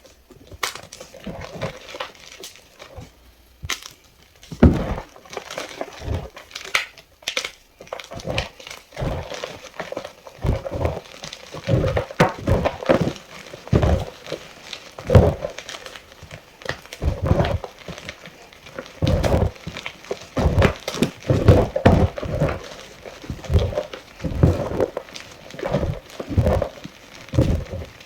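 A fresh block of gym chalk being crushed, in a long run of irregular crunches and crumbles, some sharp and heavy, others short and light.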